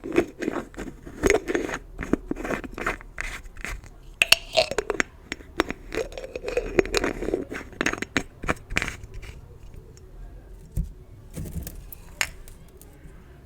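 Gift bows handled close to the microphone: irregular scratchy scraping and crackling with many sharp little clicks, thinning out after about nine seconds.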